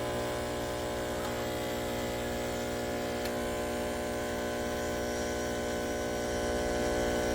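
CASABREWS espresso machine frothing milk with its steam wand: a steady electric buzz from the machine with a hiss of steam underneath.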